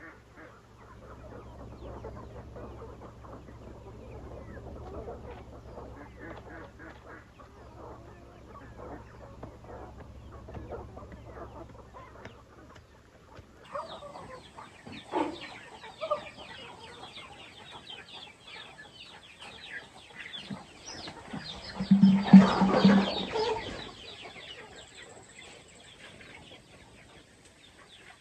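Chickens clucking and calling, with a louder outburst of calls lasting about two seconds late on.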